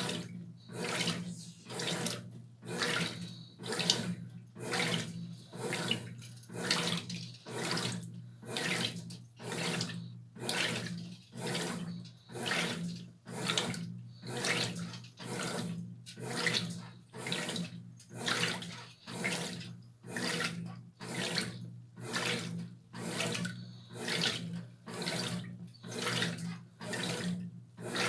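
Brastemp BWR12AB top-loading washing machine agitating a load, water and clothes sloshing in regular surges about three every two seconds over a steady motor hum.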